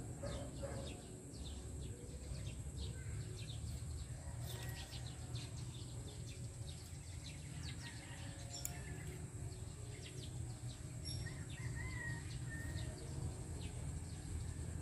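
Outdoor ambience: a steady low rumble of wind, with small birds chirping faintly throughout and a few clearer chirps near the end.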